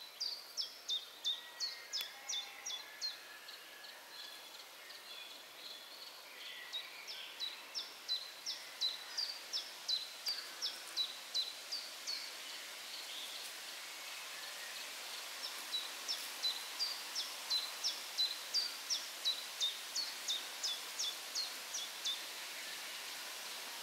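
A small songbird repeating short, high, downward-sweeping notes about three a second, in three runs of several seconds each, over a steady faint hiss.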